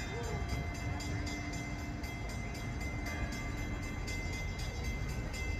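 Low, steady rumble of an approaching Norfolk Southern freight train that is still out of sight, with steady thin tones and fast, even high-pitched pulses over it.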